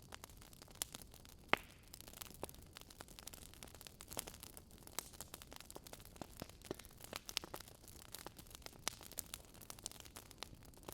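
Wood fire crackling in a fireplace: irregular sharp pops and snaps over a soft hiss, one louder pop about a second and a half in.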